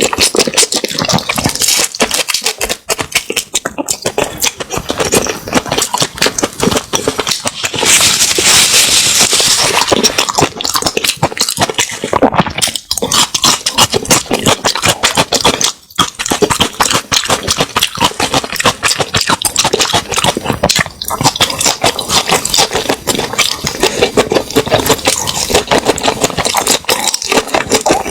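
Close-miked eating sounds: continuous chewing, smacking and crunching of food in the mouth, a dense run of wet clicks and crackles, with a louder, hissier stretch about eight seconds in.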